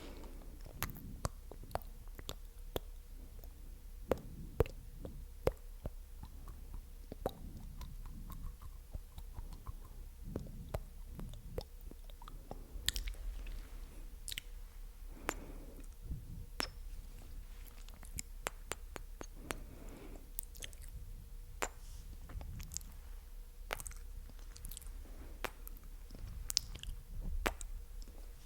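Close-miked ASMR mouth sounds: wet, sticky clicks and pops of lips and tongue, irregular and soft, with occasional sharper smacks.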